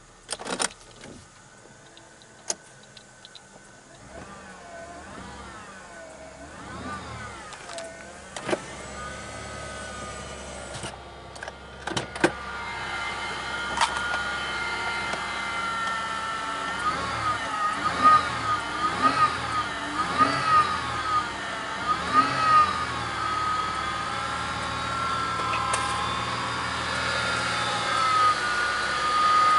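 A few sharp clicks, then a car engine running from about four seconds in. A whining tone over the engine rises and falls about once a second, and the sound grows steadily louder.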